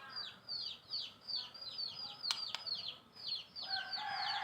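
A bird chirping fast and steadily, about four or five short high notes a second, each sliding down in pitch. A couple of sharp clicks cut in, and near the end a rooster starts to crow.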